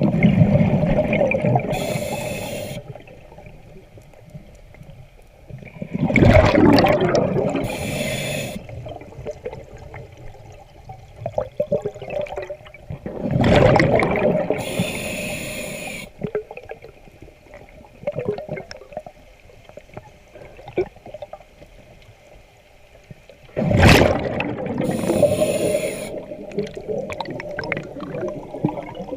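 Scuba diver breathing underwater through a regulator: four rushes of exhaled bubbles every six to ten seconds, with softer bubbling and gurgling between.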